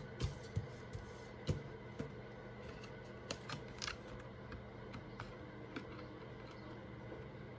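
Tarot cards being handled and laid out on a table: a series of light clicks and taps, most of them in the first four seconds, then fewer and fainter, over a faint steady hum.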